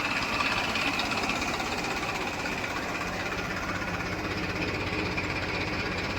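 Diesel engine of a heavy farm or construction machine running steadily, with a fine low pulsing.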